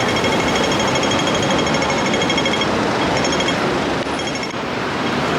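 Hong Kong pedestrian crossing signal ticking rapidly over street traffic noise: the fast green-phase rattle. It stops about two and a half seconds in and comes back twice briefly.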